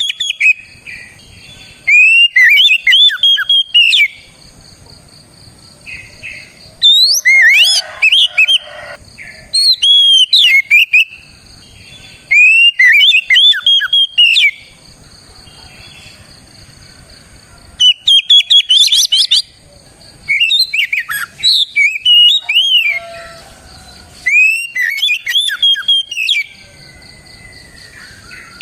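Oriental magpie-robin (kacer) singing loudly: about eight bouts of rapid, varied whistled phrases, each a second or two long, separated by short pauses. A faint steady high tone runs behind the song.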